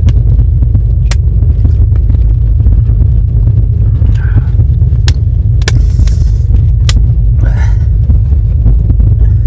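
Moving passenger train: a loud, steady low rumble with a few sharp clacks scattered through it.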